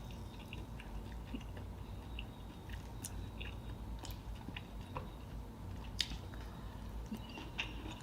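Close-miked mouth sounds of someone eating seafood: soft chewing with scattered small wet clicks and crackles, a few sharper ones among them.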